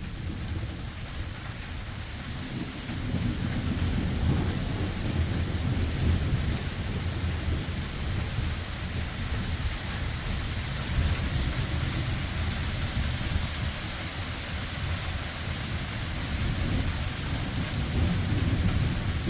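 Unbroken rumbling thunder from many lightning strikes running together, with steady rain falling. The rumble swells about three seconds in and again near the end.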